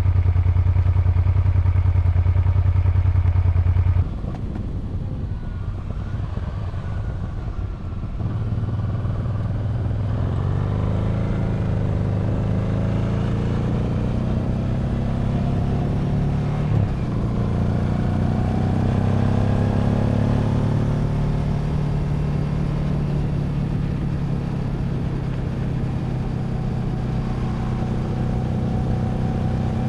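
Honda Transalp 700's V-twin engine running on the road, its note rising and falling slowly with speed and gear changes. A louder, steady low hum at the start cuts off about four seconds in.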